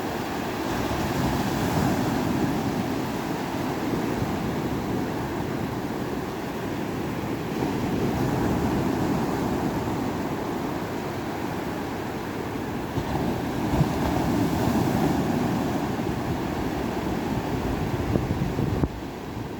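Ocean surf: a continuous wash of breaking waves, swelling and easing about every six seconds.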